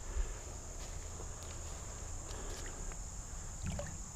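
Steady high-pitched insect chorus, cricket-like, with a faint low rumble and a few soft clicks.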